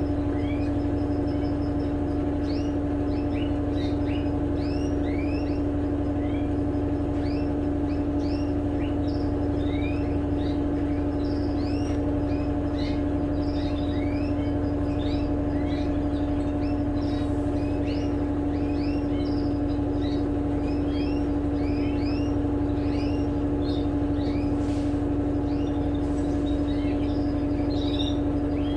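Electrolux LTE12 Turbo Economia washing machine running its spin cycle: a steady motor hum with a constant whine, unchanging throughout. Birds chirp repeatedly in the background.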